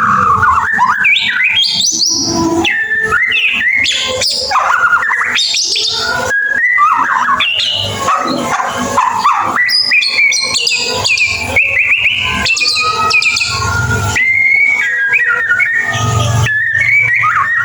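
White-rumped shama (murai batu) singing a 'ngeriwik' song: a continuous, fast-changing stream of clear whistles, rising and falling slurs and short chattering trills.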